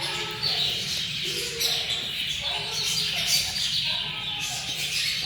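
Cockatiel chicks calling with a string of short, repeated chirps.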